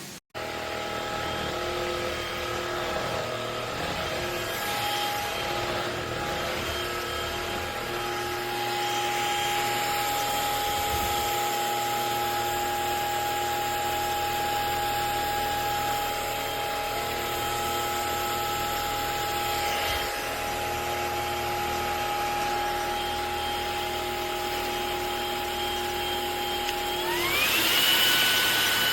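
MONSGA cordless stick vacuum's brushless motor running with a steady whine. Near the end it speeds up, gliding to a higher, louder whine.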